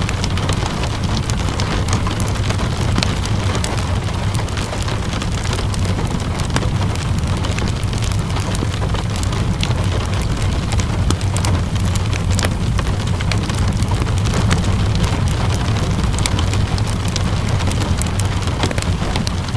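Steady rainfall mixed with a crackling wood fire: a constant hiss of rain, dense small snaps and pops throughout, and a steady low rumble underneath.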